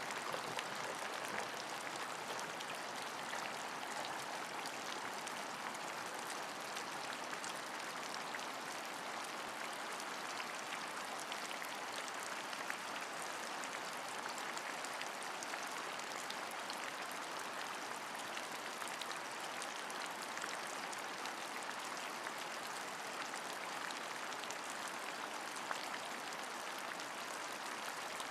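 Steady rain falling: an even hiss with many fine, scattered drop ticks, unchanging throughout.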